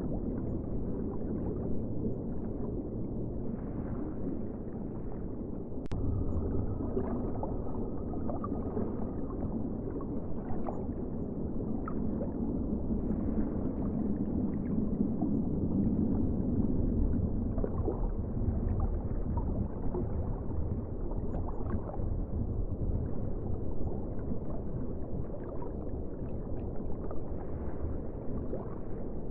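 Steady, muffled ocean water sound: a low rushing rumble with small gurgles and clicks, and one sharp click about six seconds in.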